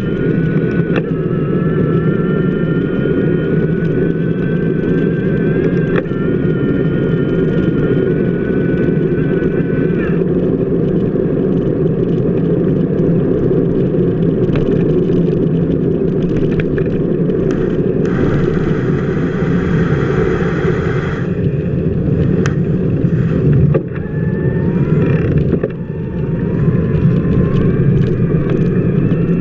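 Steady low rumble of a bicycle wheel rolling over wet pavement, heard from a camera mounted on the wheel's hub. A faint whine rises slowly in the first third, and a hiss comes in for a few seconds about two-thirds of the way through.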